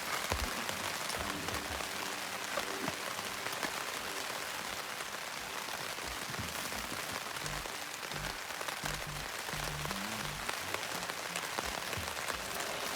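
Steady rain falling, with many small drop hits, and no pause through the stretch.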